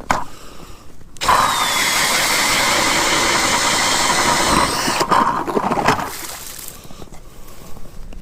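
Power ice auger drilling a hole through lake ice. The motor runs hard and steady for about four seconds, dips, surges again briefly, then winds down.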